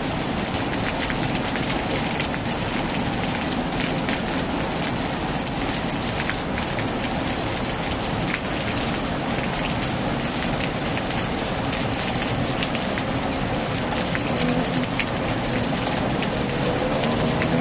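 Heavy rain pouring steadily on a tin roof, a dense hiss scattered with sharp individual drop ticks. A faint pitched hum, rising in pitch, joins in the last few seconds.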